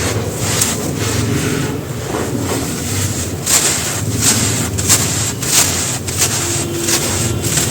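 Dry, dusty sand-cement chunks crumbling and crushing: a continuous gritty crumbling with sharp, crisp cracks about once or twice a second.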